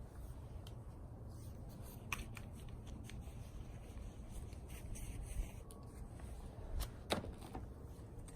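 Scattered light clicks and rustles of things being handled, the loudest click about seven seconds in, over a steady low rumble.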